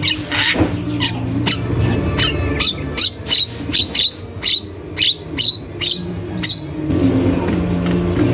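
Javan myna (jalak kebo) calling over and over in a quick series of sharp, downward-sliding notes, about two a second, stopping about six and a half seconds in. A steady low hum runs underneath.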